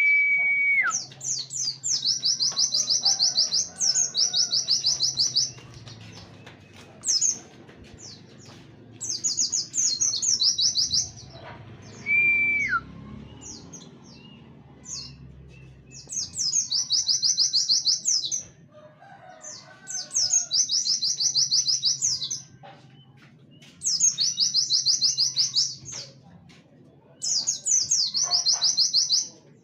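Pleci (white-eye) singing its 'tembakan' song: bursts of fast, high 'wit wit' trills every few seconds, each about two to three seconds long, in a canary-like style. A held whistle that drops at the end sounds twice, once at the very start and once about halfway.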